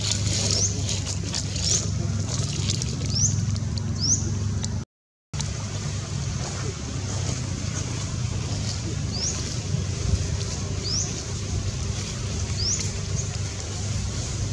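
A bird's short rising chirps, repeated every second or two, over a steady low rumble. The sound cuts out for about half a second about five seconds in.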